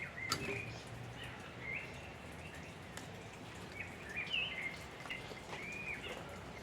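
Birds calling: a series of short whistled chirps, some rising and some falling, over steady background noise, with a few sharp clicks.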